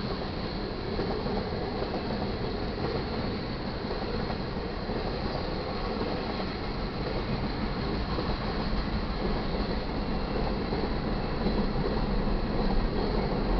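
Freight cars of a passing train, tank cars and boxcars, rolling over the rails at a grade crossing: a steady rumble of wheels on track that grows somewhat louder over the last few seconds.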